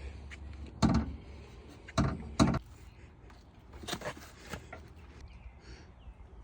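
A few sharp knocks and clunks: one about a second in, two close together around two to two and a half seconds in, and two fainter ones around four seconds.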